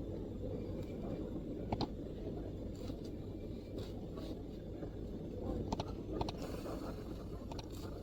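Scattered, irregular MacBook keystrokes, about a dozen soft clicks with pauses between them, over a steady low background rumble.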